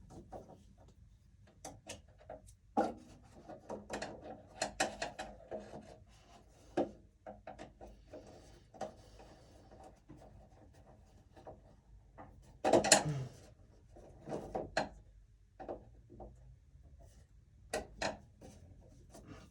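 Handling noise of electrical cables being worked into a breaker panel: scattered light clicks, taps and rubbing, with a louder bump about 13 seconds in.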